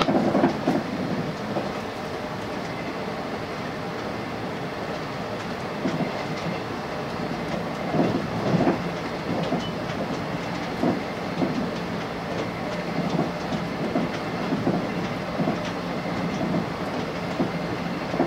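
Running noise heard inside a car of a JR West 381 series electric limited express at speed: a steady rumble of wheels on rail, with wheels clacking over the track in irregular groups from about six seconds in.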